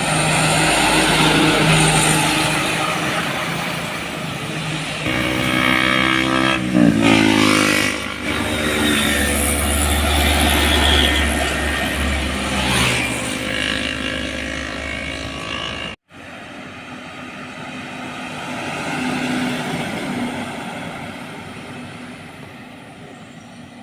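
Heavy trucks passing on a highway. A loud pass about five to eight seconds in, with a pitch that slides downward, is followed by a deep rumble. The sound breaks off abruptly about two-thirds of the way through, and quieter traffic follows and fades.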